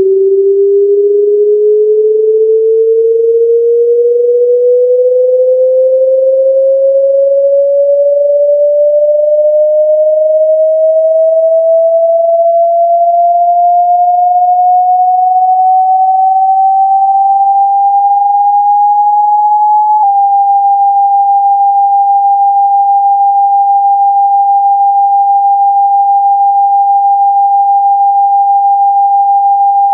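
Generated sine tone for pushing water and dust out of a phone speaker: the pitch glides slowly and evenly upward for about twenty seconds, then after a brief click holds one steady high tone near 800 Hz.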